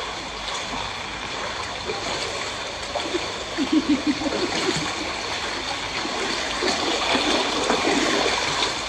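Floodwater flowing steadily after heavy rain, with a spell of louder gurgling and splashing about three and a half to five seconds in.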